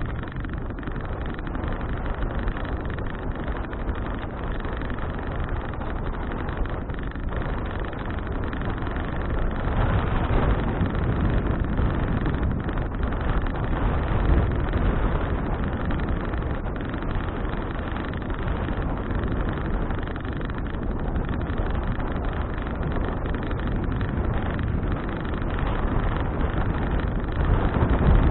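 Wind buffeting an action camera's microphone on a moving bicycle: a steady low rushing noise that grows louder about ten seconds in and again near the end.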